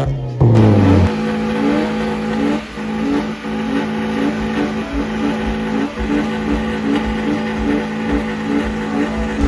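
Car engine revved up about half a second in and then held at high revs with a steady note.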